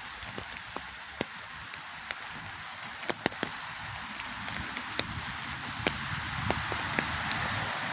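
Rain falling steadily, a hiss that grows slowly louder, with irregular sharp taps of single drops landing close by.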